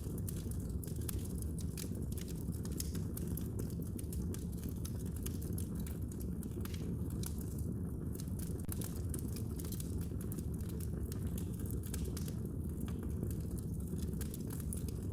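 Fire burning in a fireplace: a steady low rush with many small, sharp crackles and pops.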